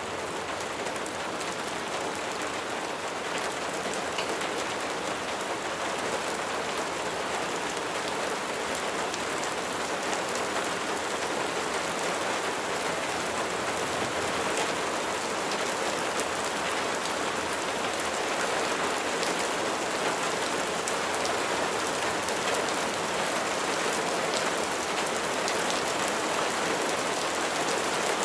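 Steady rain falling, a dense hiss of drops with many individual drop ticks, slowly getting a little louder.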